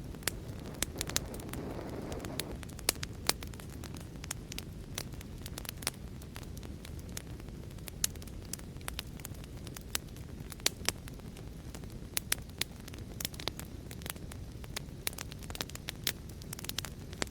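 Fire crackling in a fireplace: irregular sharp pops and snaps, several a second, over a steady low rush of flame. There is a short swell of rushing noise near the start.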